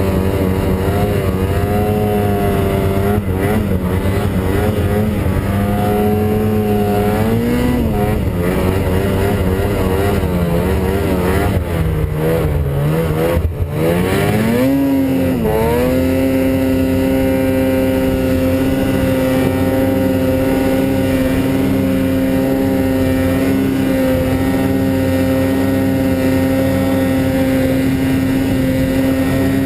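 Snowmobile engine running under load, its pitch rising and falling with the throttle through the first half, dipping and climbing again about halfway, then held at one steady pitch for the rest.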